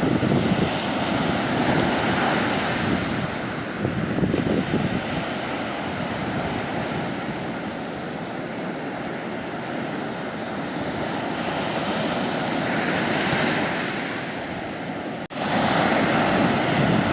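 Mediterranean sea waves breaking and washing on the shore, a steady wash that swells twice. It cuts out for an instant about fifteen seconds in.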